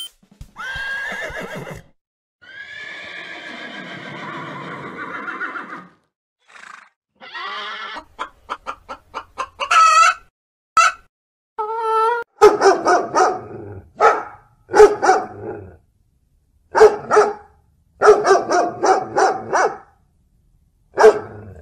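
A horse neighing twice, the second a long wavering whinny. From about eight seconds in, a hen clucks and cackles in quick repeated bursts.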